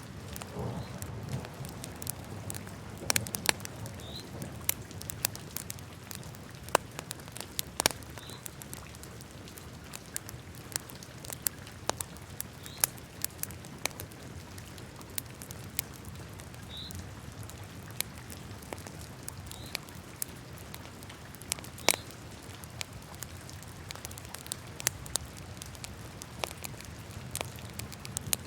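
Wood fire burning in a fireplace, crackling with irregular sharp pops over a low steady rumble of the flames. A few faint, brief high-pitched squeaks come every few seconds.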